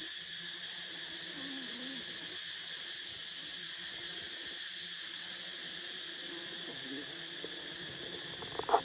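Steady, high-pitched insect chorus, like crickets, chirring without a break. A short, louder vocal call cuts in near the end.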